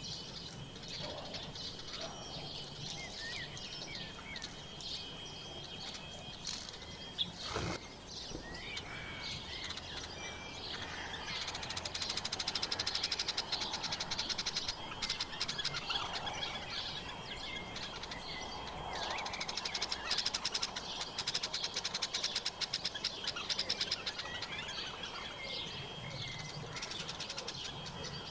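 Several wild birds chirping and singing in short, overlapping calls, with spells of fast, high ticking chatter and a single sharp click about seven seconds in.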